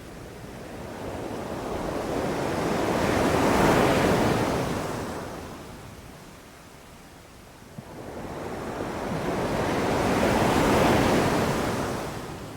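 Ocean waves breaking and washing onto a beach: two waves about seven seconds apart, each swelling to a peak and then fading away.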